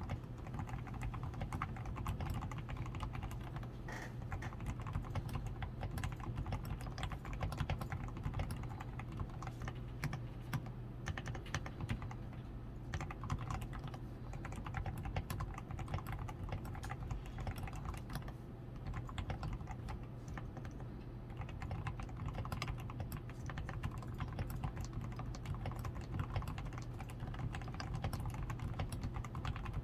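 Continuous typing on a DAREU A87 Pro mechanical keyboard: a steady, dense run of keystrokes. Its switches and stabilizers are lubed with Krytox 105, the PCB is tape-modded, the switches are padded with Poron foam, and it wears XDA keycaps.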